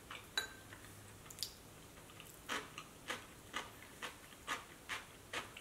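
A few light spoon clicks on a ceramic bowl, then steady crunchy chewing of cubed radish kimchi (kkakdugi), about two to three chews a second, starting about halfway through.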